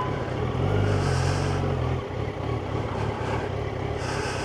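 Yamaha FZ1's inline-four engine running at low revs in slow traffic, with road and wind noise. The engine note swells and steadies for about a second and a half, starting just under a second in.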